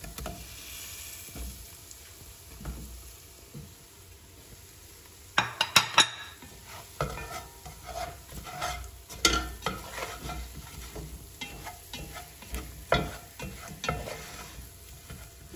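Mushrooms frying and sizzling in oil in a non-stick pot while a spatula stirs and scrapes them around the pan. A quick run of sharp knocks about five and a half seconds in is the loudest moment, followed by repeated scrapes and taps.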